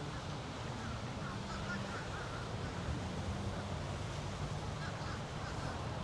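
Steady outdoor ambience with a low hum, and faint short calls about a second in and again near the end.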